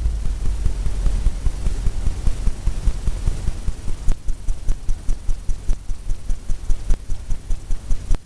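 Fan brush loaded with wet oil paint being worked against a stretched canvas: a fast, even run of low thumps, about five a second, as the brush is tapped and stroked across the canvas.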